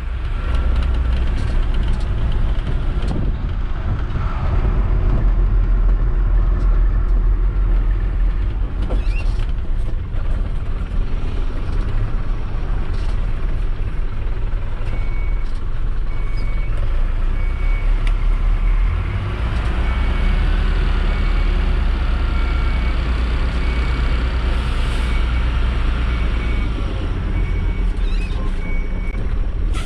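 Mercedes-Benz Atego dump truck's diesel engine running, heard from the cab. About halfway through, a reversing beeper starts, sounding a short high beep about once a second.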